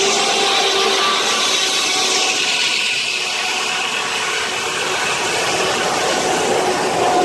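A steam-powered sawmill saw cutting steadily through a log, with a loud, continuous rasping noise and a faint whine from the spinning blade. The saw is driven by a 1926 Keck-Gonnerman steam traction engine.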